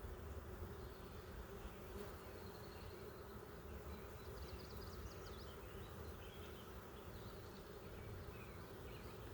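Honeybees buzzing around an opened hive, a steady low hum with no breaks.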